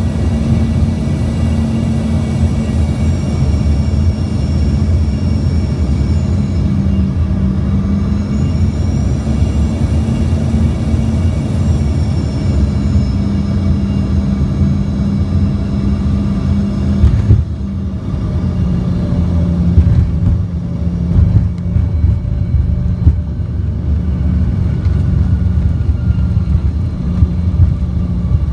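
Airliner's turbine engines whining over a heavy rumble, their pitch rising and falling as thrust changes. About seventeen seconds in comes a sudden jolt, after which the rumble carries scattered knocks and the engine tone slowly falls, as on touchdown and rollout.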